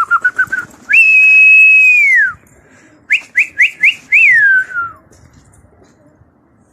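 A pigeon keeper whistling loudly to his flock of flying pigeons: a quick run of short rising chirps, one long steady high whistle that drops away at the end, then four more short rising chirps and a final falling whistle.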